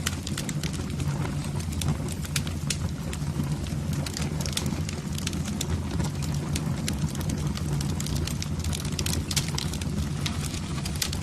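Wood fire burning in a fireplace: many irregular sharp crackles and pops over a steady low rumble of the flames.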